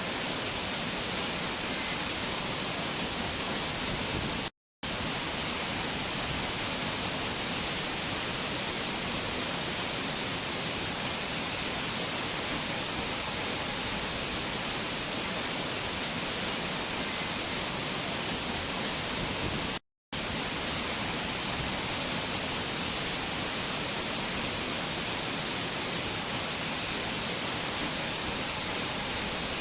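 Waterfall rushing steadily: a dense, even, hissy wash of falling water. It cuts out completely twice for a split second, about five seconds in and again about twenty seconds in.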